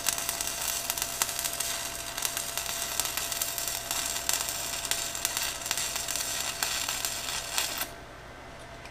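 Stick (arc) welding: the electrode's arc crackling and sizzling steadily, then breaking off about a second before the end.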